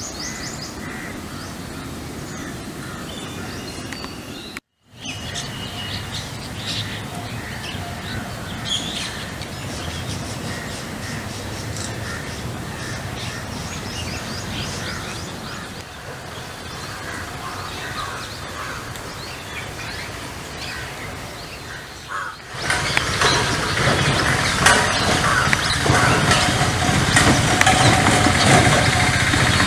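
Birds calling over outdoor background noise, with crows cawing; the calls grow louder and busier about three quarters of the way through.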